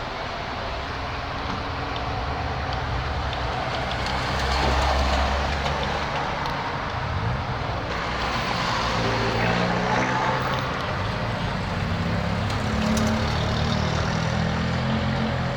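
Modified cars' engines running at low speed, with a deep exhaust rumble; one engine revs up about eight seconds in, and the engine notes shift as cars move past.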